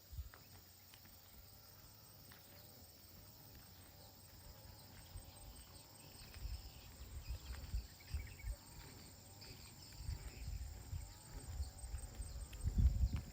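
Footsteps walking along an outdoor path. Wind rumbles on the microphone in gusts that grow stronger through the second half, with faint insect chirping behind.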